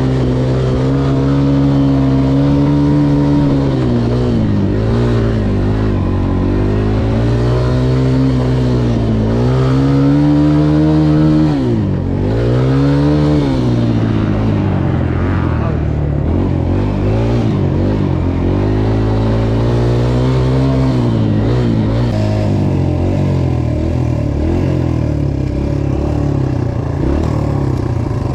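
Dirt bike engine running close by, revved up and down several times, its pitch dipping and climbing again. It then settles into a rougher, steadier run near the end.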